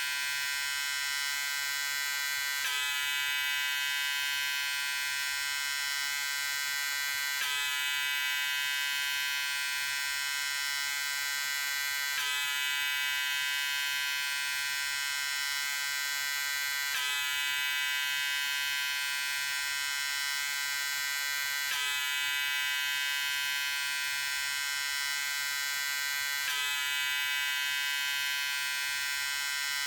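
Electric shaver running with a steady, high buzz, its tone unchanging, with a slight break about every five seconds where the recording repeats.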